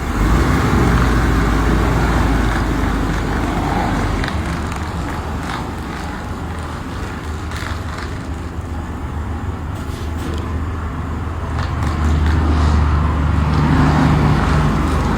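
Car engine running with a steady low note, the 1977 Mercedes-Benz 450 SL's 4.5-litre V8, growing louder about three quarters of the way through.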